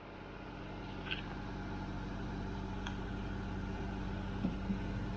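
Komatsu PC16 mini excavator's diesel engine running steadily at low revs, fading in over the first second, with a few faint clicks.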